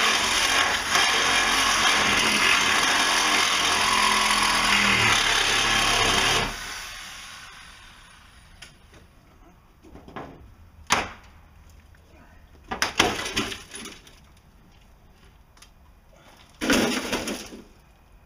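Jeep Cherokee XJ engine running loudly, rising in pitch about five seconds in, then shut off and running down over a second or so. After that come a few sharp knocks and clatters, the loudest a short burst near the end.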